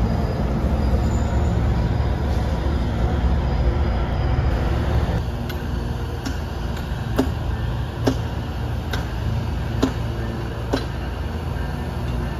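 Low, steady rumble of an MBTA bi-level commuter train rolling past. About five seconds in it gives way to a quieter steady hum with sharp metallic ticks about once a second.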